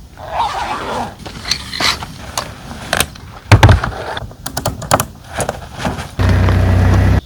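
Roof top tent being handled and folded up: fabric rustling, a run of clicks and knocks with one heavy thump about three and a half seconds in, then a steady rasping buzz for about a second near the end.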